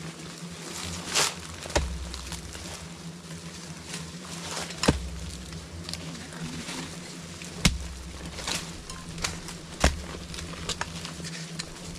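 Bees buzzing steadily in a low hum, with sharp knocks at irregular intervals of two to three seconds.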